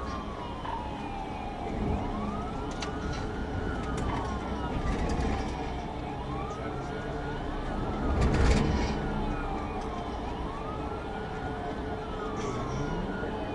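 Police siren wailing, its pitch rising and falling slowly every couple of seconds, over vehicle road and engine noise during a pursuit. A brief louder burst of noise comes about two-thirds of the way through.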